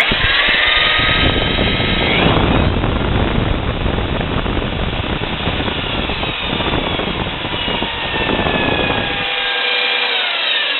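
Milwaukee 4208-1 magnetic drill press motor spinning up at the start and running at speed with a whine. Near the end it is switched off, and the whine falls as it winds down.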